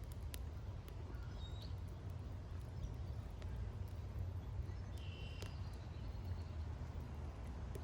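Outdoor ambience: a steady low rumble with a few faint clicks, and two brief bird chirps, one about a second and a half in and another about five seconds in.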